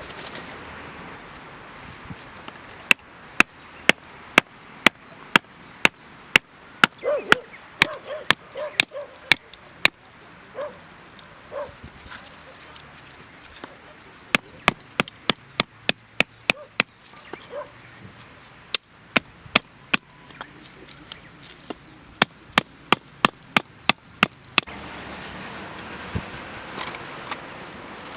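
Ferro-rod fire starter struck again and again with its scraper, a quick run of short sharp scrapes about two a second, pausing briefly partway through.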